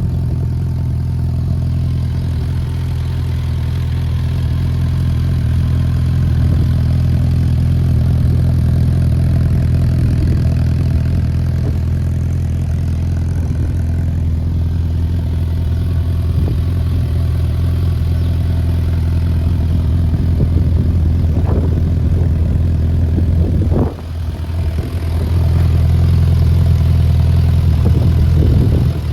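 Suzuki GSF650S Bandit's inline-four engine idling steadily through a Black Widow aftermarket exhaust with the dB killer fitted. The note dips briefly about 24 seconds in, then settles back to idle.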